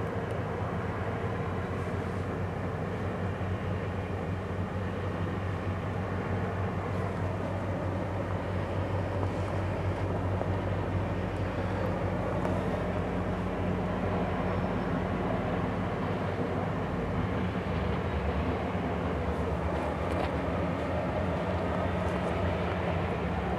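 Diesel locomotives of a passenger train running along the track with a steady engine drone and the noise of the passing coaches; the deepest part of the hum drops away about two-thirds of the way through.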